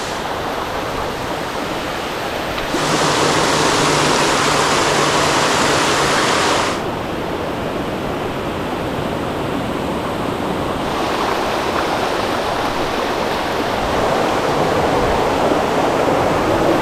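Waterfall water rushing in a steady, loud wash of noise. It turns abruptly louder and brighter about three seconds in and drops back about seven seconds in.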